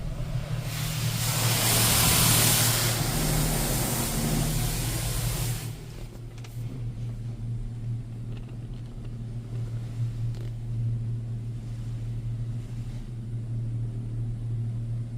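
High-pressure water jets from a touchless monorail car wash spraying the car, a loud hiss for about five seconds that then drops away, over a steady low hum.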